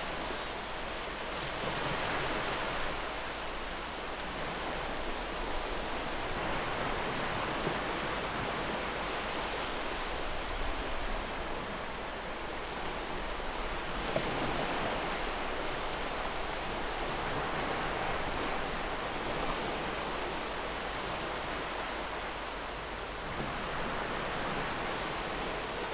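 Steady rushing noise of sea surf, swelling and easing every few seconds.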